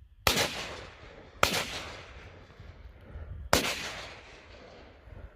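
Three gunshots, the second about a second after the first and the third about two seconds later, each trailing off in a fading echo.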